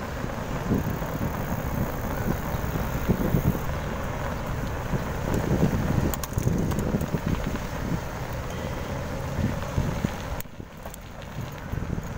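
Wind buffeting the microphone of a moving bicycle, a steady low rumble with road noise underneath, easing noticeably about ten seconds in.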